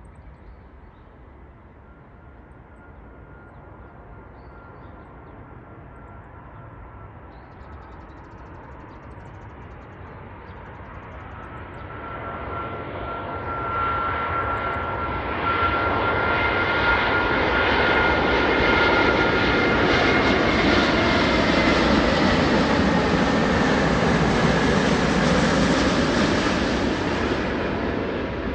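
Airbus A380 jet with four Rolls-Royce Trent 900 turbofans, its engine noise growing steadily louder as it approaches, with a steady high whine over the roar. About eighteen seconds in it reaches its loudest and holds there, easing off slightly at the end.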